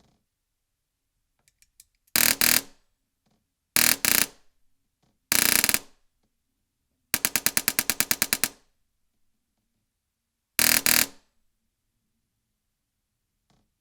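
Airsoft replica driven by a Gate PULSAR D dual-solenoid, closed-bolt HPA engine firing in rapid bursts. There are three short bursts, then a longer burst of about a second and a half at roughly a dozen shots a second, then one more short burst near the end.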